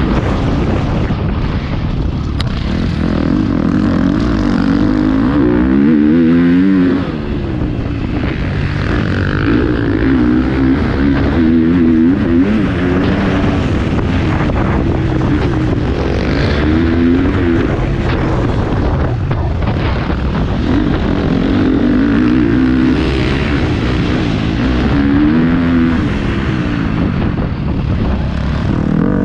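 Motocross bike engine revving up and down over and over as the bike is ridden hard around the track, heard from a camera mounted on the bike or rider.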